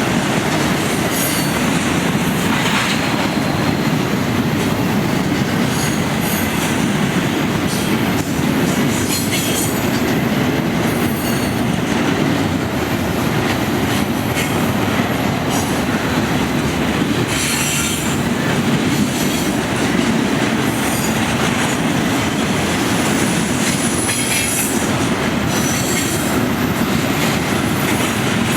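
Freight cars of an intermodal train rolling past: a steady rumble of wheels on rail, with brief high-pitched wheel squeals that come and go.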